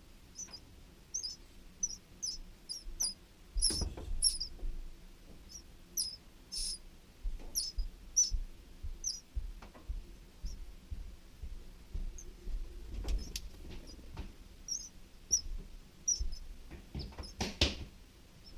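Short, high chirps from a flycatcher's nest, scattered irregularly, with a low rumble underneath. A few brief rustling knocks, the loudest near the end.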